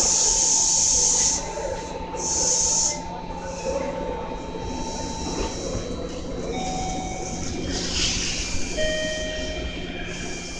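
Meitetsu electric train approaching along the platform track. A loud hiss fills the first second or so and returns briefly about two seconds in, over a low rumble with a few thin steady tones.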